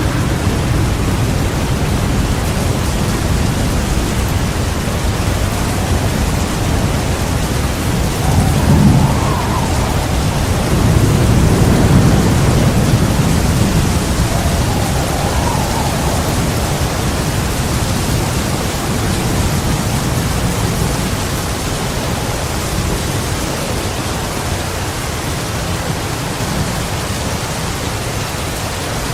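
Heavy rain falling steadily, with thunder rumbling: a short rumble about eight seconds in and a longer one building to its loudest around twelve seconds, then fading.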